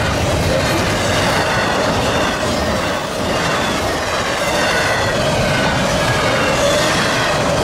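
Intermodal container cars of a freight train rolling steadily past, steel wheels rumbling on the rails with a faint high squeal from the wheels.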